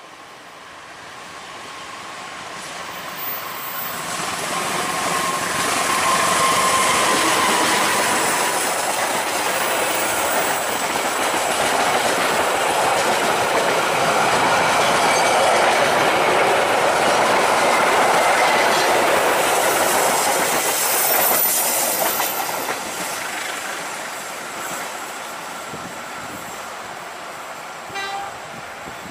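Diesel-hauled passenger train passing close by: the locomotive and the wheels on the rails build to a loud, steady rumble with some clickety-clack as the coaches go past, then fade as the train recedes around the curve.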